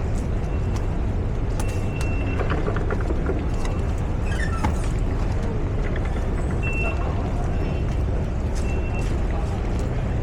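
Busy Underground station ambience: a steady low rumble with scattered clicks and a few short high beeps.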